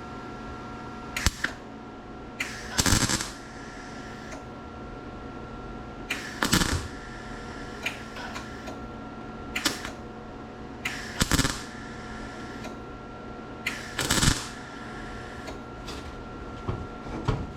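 Welder putting short tack welds on a sheet-metal door skin: about seven brief bursts, spaced a few seconds apart, over a steady background hum.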